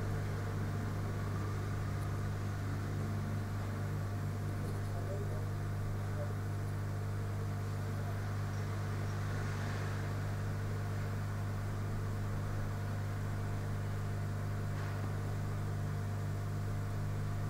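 A steady low electrical hum with a faint background hiss, unchanging in pitch and level throughout.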